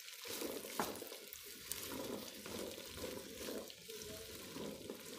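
Cut okra frying and sizzling in oil in a pot, stirred with a silicone spatula in repeated scraping strokes.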